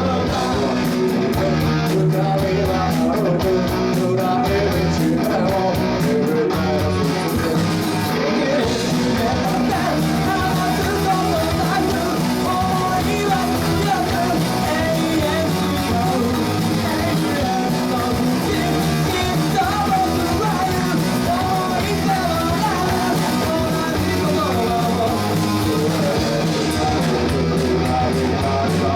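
A live rock band playing, with electric guitars, bass, drums and a singer, loud and steady throughout.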